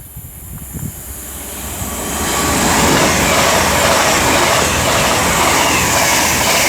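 Two coupled Class 221 Super Voyager diesel-electric units passing through the station at speed: the rushing noise of the train builds over the first few seconds, then holds loud and steady as it goes by.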